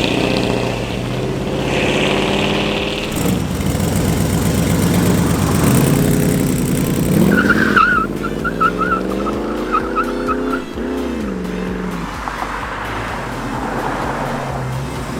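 Car engine revving hard as it pulls away, its pitch climbing and falling several times. About halfway through comes a run of short, high chirps.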